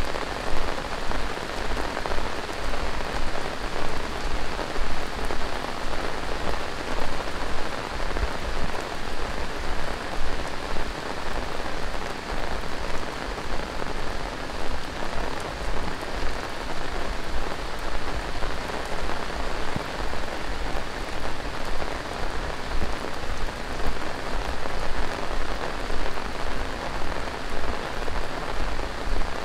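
Heavy tropical monsoon rain falling steadily, a dense even downpour with a constant patter of drops on surfaces.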